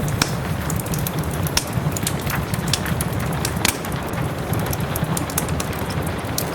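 Fireplace wood fire crackling with irregular sharp pops, over a steady hiss of rain.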